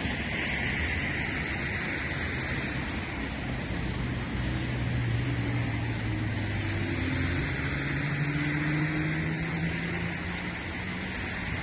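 A motor vehicle's engine running and slowly rising in pitch as it speeds up, over steady street noise.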